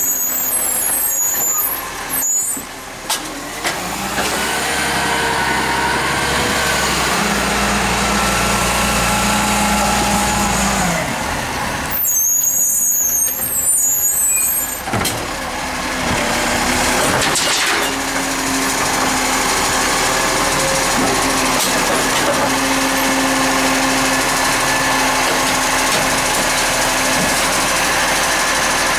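Recycling garbage truck's engine running and changing speed, with bursts of air hiss at the start and again about twelve seconds in.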